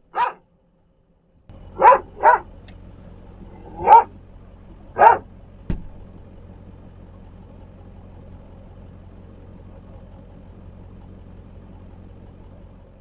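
A dog barking five times in short, sharp barks over the first five seconds, while an engine runs steadily underneath, starting about a second and a half in.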